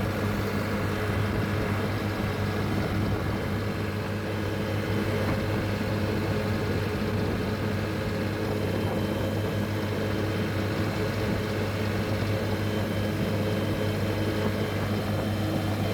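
Tractor engine running steadily under way on the road, a constant low hum with no change in pitch. Freshly serviced, it runs smoothly with no unusual noise.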